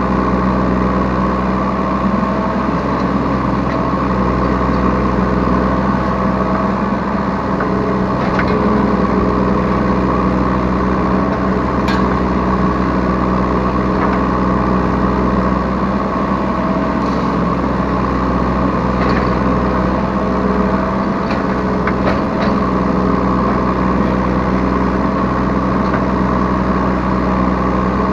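Yanmar B3 Sigma 3-ton mini excavator's diesel engine running steadily under the operator, heard from the cab, with a few short sharp clicks and knocks scattered through its middle.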